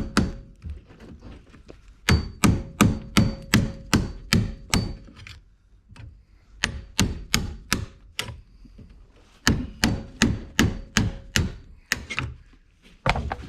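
Hammer blows on wood, struck quickly at about three a second in runs of several strokes with short pauses between, and a few more blows near the end.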